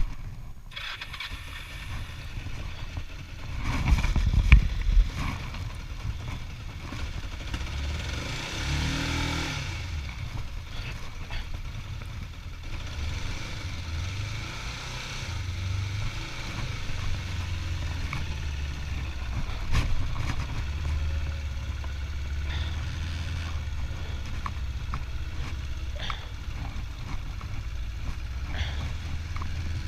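25-year-old motorcycle's engine running with a steady low hum. There is a loud burst about four seconds in, and a brief rise and fall in pitch about nine seconds in.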